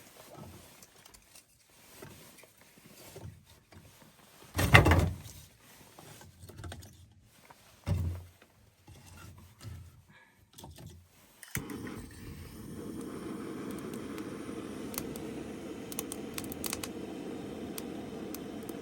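Scattered knocks and thumps of things being handled, with two louder thumps, then a steady rushing hiss that starts suddenly about two-thirds of the way through and carries on with occasional small clicks.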